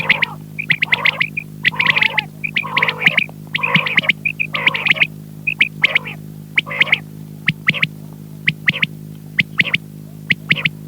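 Quail (batair) calling over and over in quick groups of short notes, thinning in the second half to scattered short sharp notes, over a steady electrical hum.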